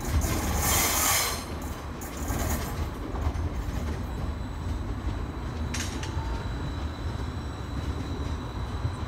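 Greater Anglia Class 755 multiple unit running away along the track: a hissing rush of wheels and running gear in the first second or so fades into a steady low rumble as the train recedes, with one sharp click about six seconds in.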